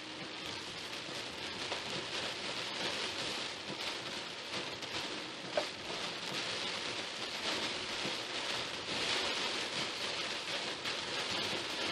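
Steady rain beating on a car as it drives through a storm, with one short sharp tick about halfway through.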